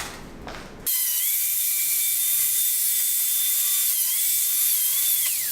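A small high-speed rotary power tool starts up about a second in and runs with a steady high whine while cutting a length of plastic tube, its pitch dipping briefly twice under load and falling as it winds down near the end.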